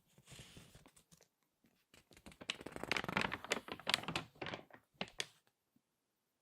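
Crinkly magazine pages being handled and squeezed, crackling. A soft rustle comes first, then a dense burst of crinkling from about two seconds in that stops after about five seconds.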